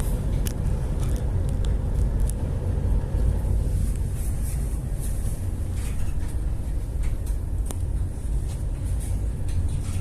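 A boat's engine running with a steady low rumble, with scattered short clicks and knocks over it.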